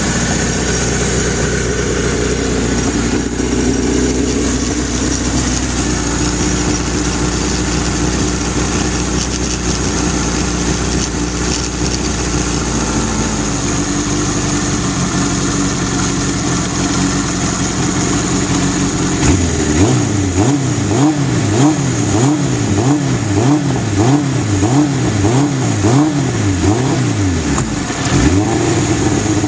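1983 Suzuki GS1100E's air-cooled inline-four, still cold after a cold start, running at a steady idle. About two-thirds of the way in it is blipped up and down about once a second, roughly ten times, then it settles back to a steady, slightly faster idle near the end.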